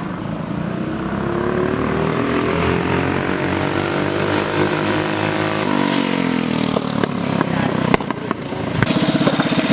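A minibike's small engine passes at speed. Its pitch climbs as it approaches, drops sharply about six seconds in as it goes by, and fades away. Near the end, a second small engine runs loudly close by.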